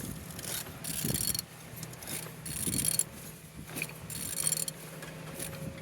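Renault K9K 1.5 dCi four-cylinder diesel engine running with a steady hum, said to be running good. A metallic jangling rattle comes in twice, about one second in and again near four seconds.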